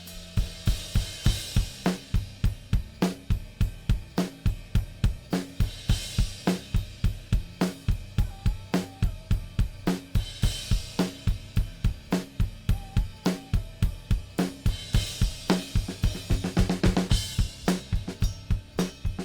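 Multitrack recording of a rock drum kit played back through a mixing desk: kick, snare, hi-hat and cymbals in a steady beat, from a well-tuned kit. The drums are heard before the SB4000 bus compressor is switched into the signal.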